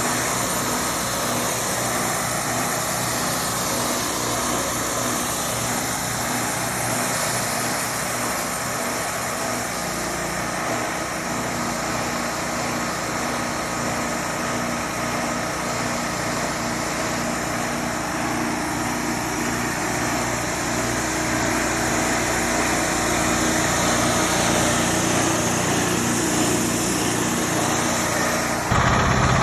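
Engine of a Wood-Mizer LT40 portable band sawmill running steadily. Near the end the sound switches abruptly to a louder, lower engine sound.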